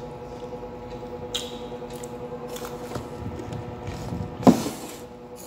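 A person chewing a pink candy-coated pretzel close to the microphone: scattered small crunching clicks, with one sharper, louder crunch about four and a half seconds in, over a steady low electrical hum.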